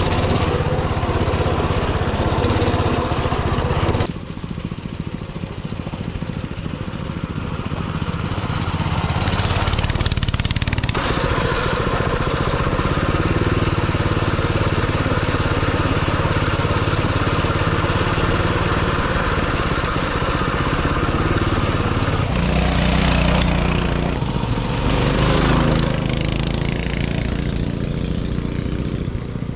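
Coleman mini bike's small single-cylinder engine running under way, its speed and loudness shifting as it is ridden, dropping back about four seconds in. Twice a rush of hiss rises over the engine.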